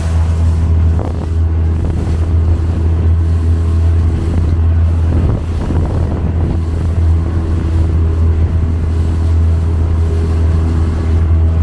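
Small motorboat's engine running steadily under way, a constant low hum.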